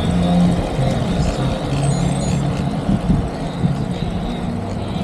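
Road traffic: a motor vehicle's engine running close by, a steady low rumble.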